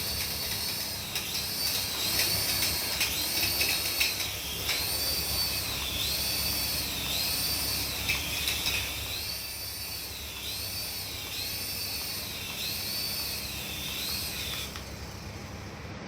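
Electronic sound effect from a battery-powered remote-control toy: a high, rising-and-falling warbling tone repeating a little over once a second. It cuts off near the end.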